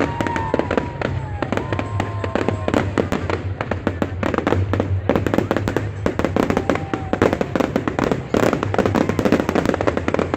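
Fireworks display: a dense, continuous run of rapid crackling bangs and pops, with a couple of falling whistles in the first two seconds.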